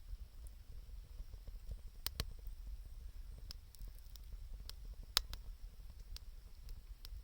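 Wood fire crackling: sparse sharp pops, about seven in all, the loudest about five seconds in, over a low steady rumble.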